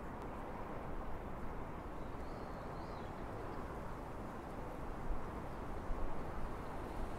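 Distant rumble of an EF81 electric locomotive and its express train approaching along the line, steady, with a couple of louder knocks from the wheels near the end. A faint bird chirp about two and a half seconds in.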